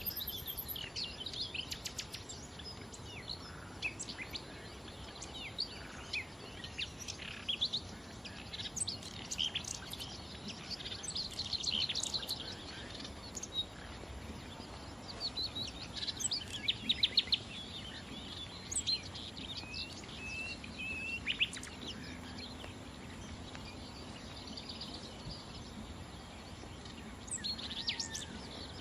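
Nightingale singing in short, varied phrases of rapid repeated notes and trills, separated by brief pauses, over a steady background hiss.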